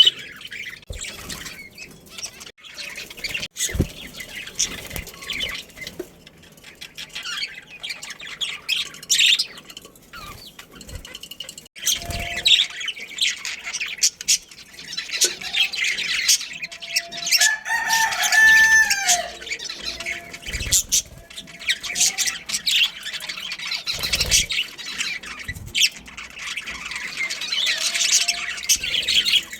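A colony of budgerigars chirping and chattering in rapid, overlapping calls, with a longer pitched call that bends in pitch about two-thirds of the way through.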